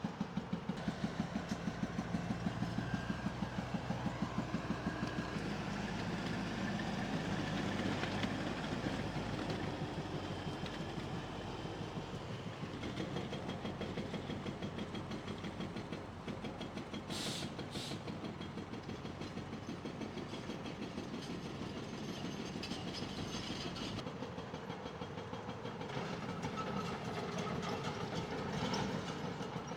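Diesel heavy equipment working rubble: engines running under a continuous clanking and rumbling, pulsing rhythmically over the first few seconds, with two short high screeches about seventeen seconds in.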